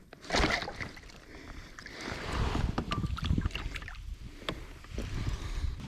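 Water splashing and handling noises on a kayak: a loud splash-like burst about half a second in, then low rumbling and scattered knocks against the hull.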